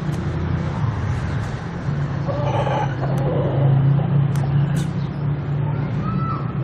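A motor vehicle engine running with a steady low drone, and a rooster giving a short call about two and a half seconds in.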